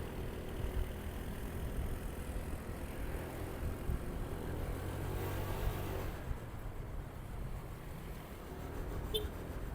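Motorcycle engine running steadily on the move, with road and wind noise; the sound swells briefly about five seconds in, and a short high chirp sounds near the end.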